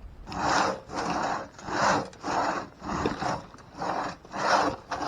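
One-man crosscut saw cutting through a fallen tree trunk, its teeth rasping through the wood in steady back-and-forth strokes, about two a second, starting a moment in.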